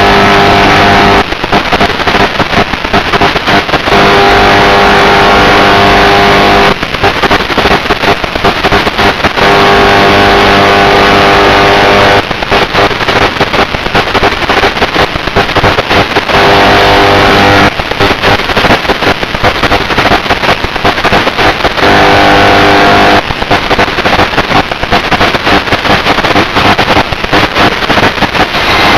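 Electric motor and propeller of an FPV aircraft running steadily, heard through the onboard microphone. Every few seconds the steady motor note gives way to rough, gusty wind rush buffeting the microphone.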